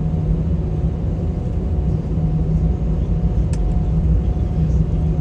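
Steady low rumble inside an airliner cabin with the engines running before takeoff, under a constant hum. A brief light tick about three and a half seconds in.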